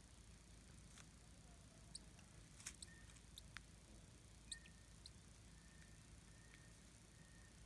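Near silence: a low steady hum with a few faint sharp clicks and several soft, very short high peeps.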